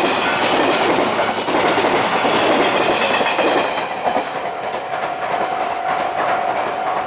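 JR East 485-series 'Kirakira Uetsu' electric train passing close over a level crossing, its wheels clacking over the rail joints; the passing noise eases about four seconds in. The level-crossing warning bell rings steadily underneath and stands out once the train noise drops.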